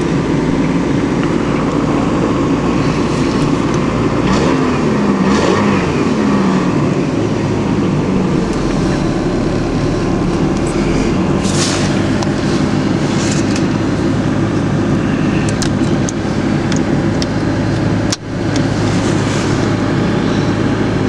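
1991 Honda Accord's four-cylinder engine idling steadily just after a cold start at about 8 below zero, its pitch wavering briefly about four seconds in.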